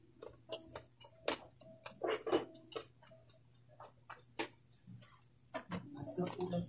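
Close-up eating sounds: irregular sharp clicks and smacks of a mouth chewing, about two a second.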